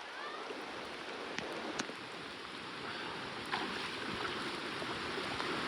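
Steady rush of creek water mixed with falling rain, slowly growing a little louder, with a few faint sharp drips or splashes.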